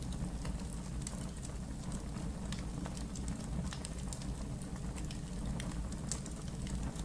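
Logs burning in a fireplace: a steady low rumble of flame with irregular sharp crackles and pops scattered throughout.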